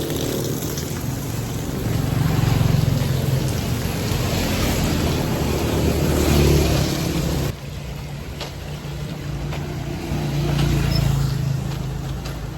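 Road traffic: car engines running under a steady wash of noise, swelling and fading as vehicles pass. It drops abruptly in level about seven and a half seconds in.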